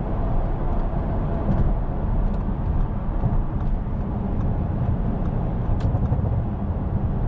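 Audi S7's twin-turbo engine running steadily under way, with road and tyre noise.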